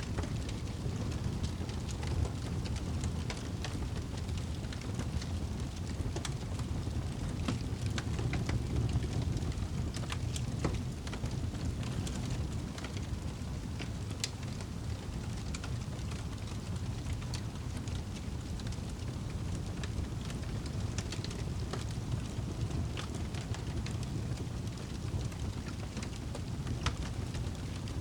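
Campfire crackling, with scattered sharp pops and ticks over a steady low rushing background.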